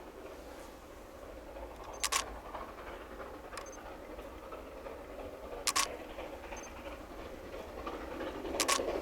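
Narrow-gauge coal train rolling slowly past, its wheels clicking over rail joints in sharp pairs about every three seconds, with the rolling rumble growing louder near the end.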